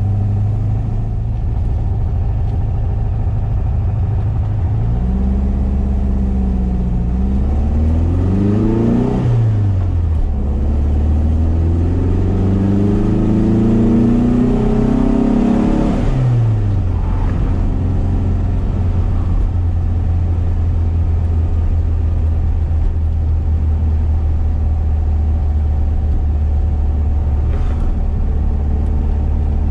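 1973 VW SP2's air-cooled flat-four with twin 40 carburettors and a stainless exhaust, heard from inside the cabin. It runs steadily, then accelerates, its note climbing twice and dropping sharply at each upshift, before settling into steady cruising for the second half.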